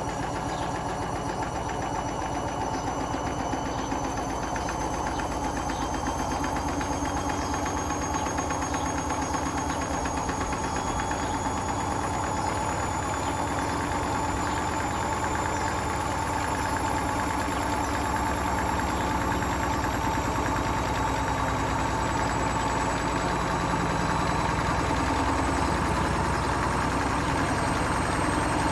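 Hotpoint Smart Tech WMFUG742 washing machine spinning a load of bricks, its motor whine slowly rising in pitch over a steady rumble as the drum speeds up.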